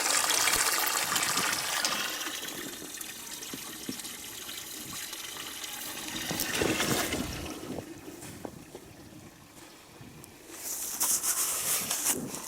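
Water running out of a garden hose into a livestock water trough, the hose flowing again after being frozen and thawed. The rush of water is strongest at first and eases off over several seconds, with a short higher hiss near the end.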